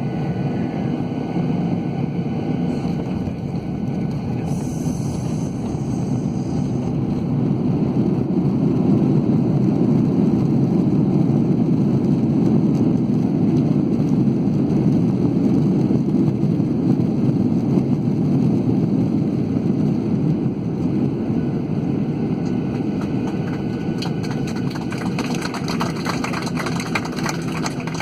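Cabin noise of a Boeing 737-800 rolling on the ground just after landing: a steady low rumble of its CFM56 engines and the airframe, swelling a little through the middle, with light rattling near the end.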